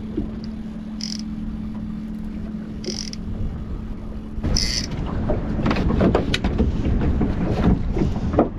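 Boat engine running with a steady hum under rumbling wind and water noise. Three short high chirps come in the first half, and clicks and knocks of handling on the boat crowd the second half.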